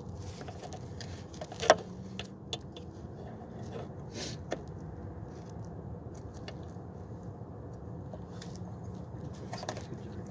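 Hands working a plastic zip tie and nearby parts: scattered small clicks and scrapes, with one sharper click a little under two seconds in, over a steady low background hum.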